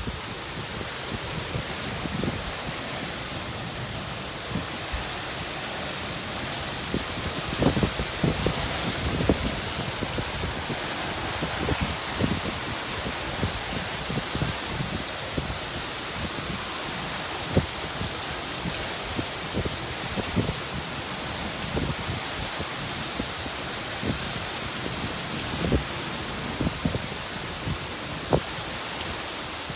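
Heavy rain pouring down steadily, with scattered sharp taps through the steady hiss.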